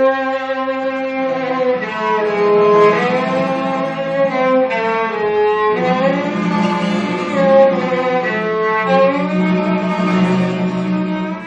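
A bowed string instrument playing a slow melody of long held notes that slide smoothly from one pitch to the next.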